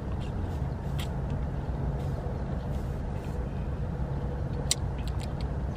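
Steady low hum of a car's idling engine heard inside the cabin, with a few faint clicks about a second in and near the end.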